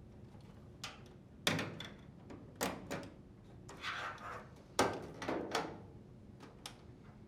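Clicks and knocks of hands working on a dryer's sheet-metal front panel and unplugging its plastic wire-harness connectors: about eight separate sharp handling sounds, some followed by a brief scrape.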